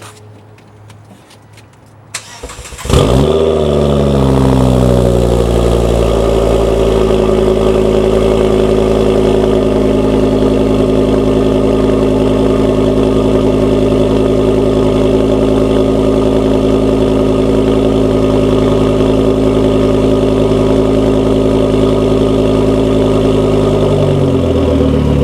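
2005 Volvo S40 T5's turbocharged 2.5-litre inline-five starting through a custom side-exit exhaust with the rear muffler deleted: a short crank, then it catches about three seconds in with a loud flare of revs. It settles to a steady, loud fast idle, and near the end the idle drops lower and quieter.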